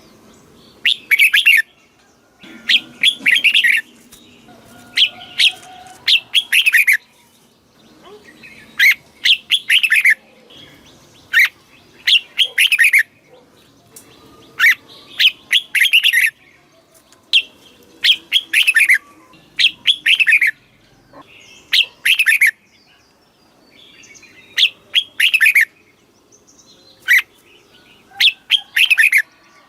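Red-whiskered bulbul singing: short, loud phrases of quick, clear chirping notes, repeated every second or two.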